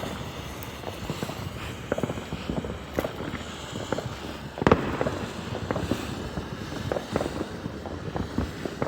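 Consumer fireworks going off: an irregular run of sharp pops, several a second, with one louder bang about halfway through.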